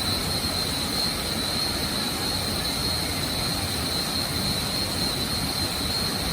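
Waterfall's water rushing steadily, a dense even noise with a thin, steady high-pitched tone over it.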